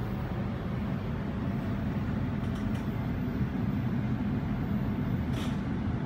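Steady low rumble of a Sydney double-deck electric suburban train running, heard from inside the carriage, with a few faint ticks and a short hiss near the end.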